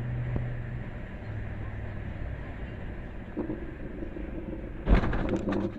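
Steady low hum of a car's engine and road noise, then about five seconds in a sudden loud bang followed by a short rattling clatter.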